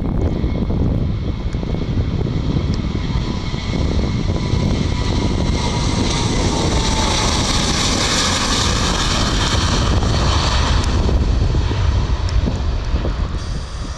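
Boeing 737-800 jet airliner with CFM56 turbofan engines passing close by. Its engine noise swells to a peak midway and then eases off, with a faint whine that falls in pitch as it goes by.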